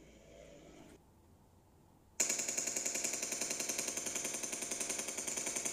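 Rapid automatic gunfire sound effect for a four-barrelled anti-aircraft gun. It starts abruptly about two seconds in and keeps up a fast, even stream of shots.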